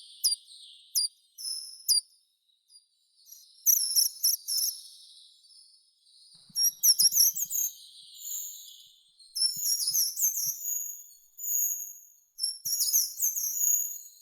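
Songbirds singing: one bird repeats short, loud phrases of quick high chirps about every three seconds, with fainter calls in between.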